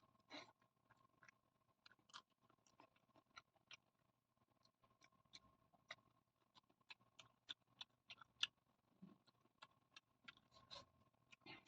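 Close-miked eating sounds: faint, irregular mouth clicks and smacks of chewing, several a second, over a faint steady hum.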